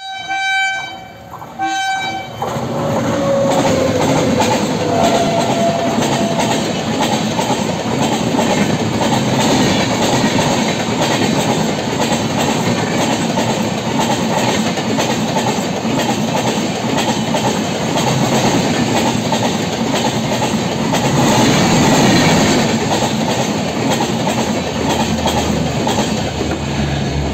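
Indian Railways Humsafar Express passenger train sounding its horn in two short blasts, then passing close by at speed. The passing train makes a steady rush of wheels on rail with continual wheel clatter, running on until the last coach goes by.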